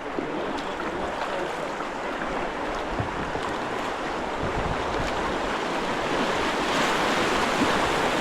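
Rushing white-water river current, a steady wash of moving water that grows louder about six seconds in as the kayak moves into the fast water.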